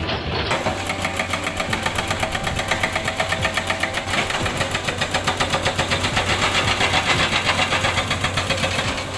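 Hydraulic rock breaker on a Komatsu excavator hammering rock: a rapid, even run of blows, about eight a second, starting about half a second in, over the excavator's engine running.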